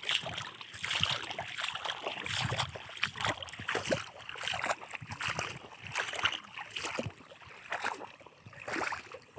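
Water splashing and sloshing in a river in irregular bursts.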